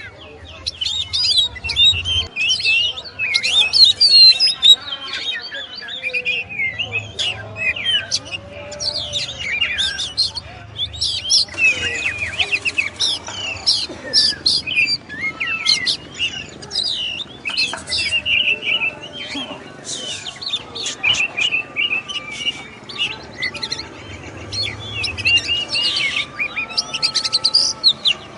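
Oriental magpie-robin (kacer) singing: an unbroken, varied run of quick whistles and chirps, many sliding up or down in pitch.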